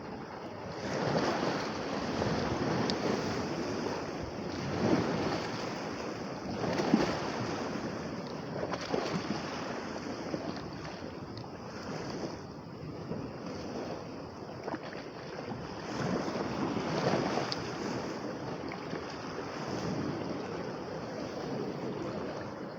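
Lake waves breaking and washing onto the shore, swelling in surges every few seconds, with wind buffeting the microphone.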